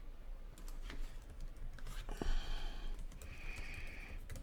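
Quiet, scattered clicks of a computer keyboard and mouse as objects are selected on screen.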